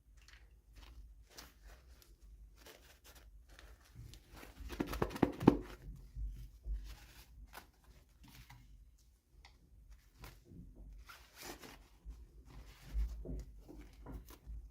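Hands handling and tearing toy packaging: scattered crinkles, rustles and small clicks, with a louder burst of tearing about five seconds in.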